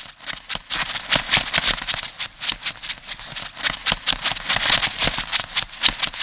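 Crab sound effect: a rapid, irregular run of dry clicks and rattling.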